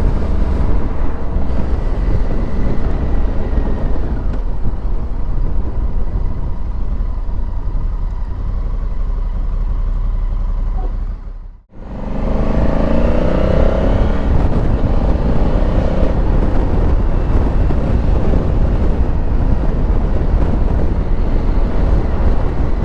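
Honda Africa Twin's parallel-twin engine running under way, with a heavy low rumble of wind and road noise. About halfway the sound drops out for a moment, then the engine note climbs as the bike accelerates.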